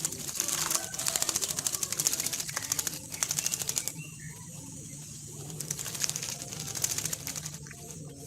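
Javan myna chattering: fast, dry clicking rattles that ease off for a moment in the middle, over a steady low hum.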